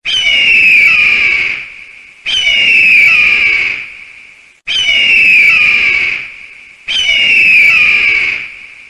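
Eagle screaming four times, each a long, loud call that starts high and falls slightly in pitch, about two seconds apart.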